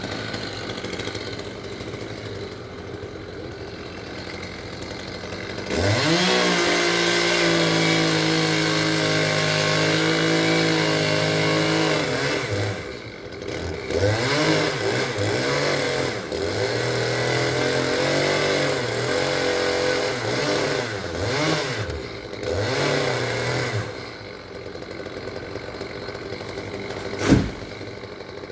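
Chainsaw engine idling, then revved hard about six seconds in and held at full throttle. It then surges up and down repeatedly, as when cutting into a palm trunk, before dropping back to idle. A single sharp knock comes near the end.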